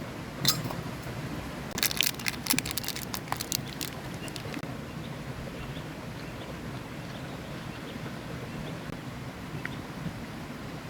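Steady rush of a river flowing, with one sharp click about half a second in and a rapid cluster of clicks and knocks between about two and four and a half seconds in.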